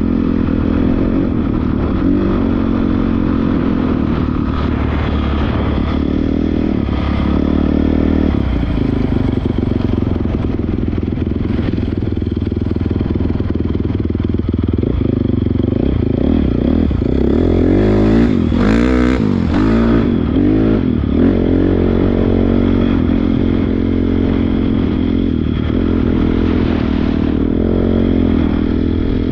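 Honda CRF450R dirt bike's single-cylinder four-stroke engine running while being ridden, its pitch rising and falling with the throttle, with a quick run of revs up and down about two-thirds of the way through.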